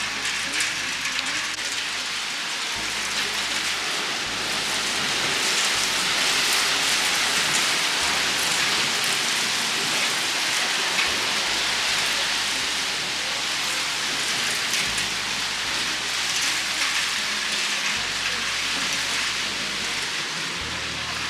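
Steady heavy rain falling, a constant hiss of drops with many small ticks of individual drops throughout.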